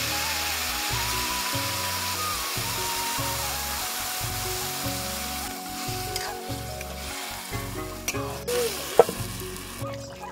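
Food sizzling as it fries in hot oil in a pan, the sizzle easing somewhat about halfway through, with a couple of sharp knocks near the end.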